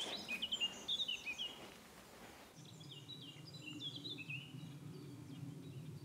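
Songbirds singing: quick, high chirps and short falling notes in two stretches, the second over a faint steady low hum.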